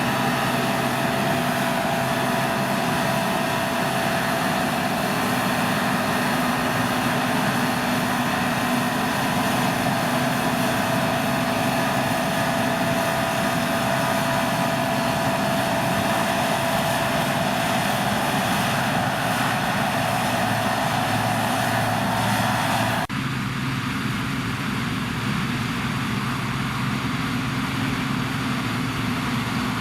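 Deutz-Fahr C9306 CS combine harvester running steadily while harvesting barley, a machine drone with a steady whine over it. Near the end the whine and hiss drop away suddenly, leaving a lower steady running sound.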